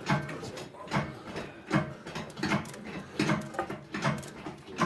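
Hydraulic engine hoist being pumped by hand, lifting a worn-out 350 V8 out of the car: an even metallic clank about every three-quarters of a second.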